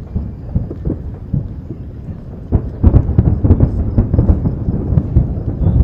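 Aerial fireworks booming: scattered bangs that thicken into a rapid barrage of loud bursts about two and a half seconds in.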